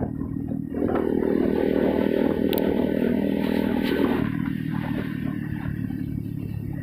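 Motorcycle engine running under way, its note dropping and easing off about four seconds in, with a couple of brief sharp clicks.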